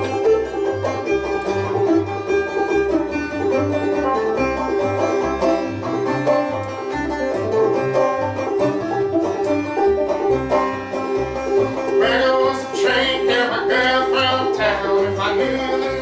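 Old-time banjo tune picked at a steady pace over a regular low bass line; about twelve seconds in a higher, wavering melody line joins on top.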